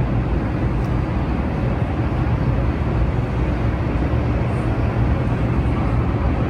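Steady low rumble and hiss of a moving elevated tram.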